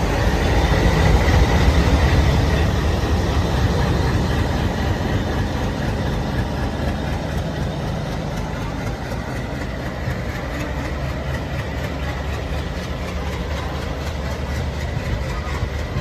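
ALCO diesel locomotive engine running with a heavy, steady low rumble, loudest in the first couple of seconds and easing off slightly after.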